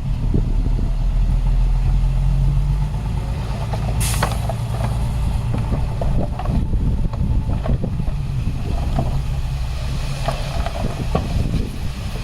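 Heavy diesel earthmoving machinery running with a steady low rumble, a short hiss of air about four seconds in, and scattered clanks and rattles.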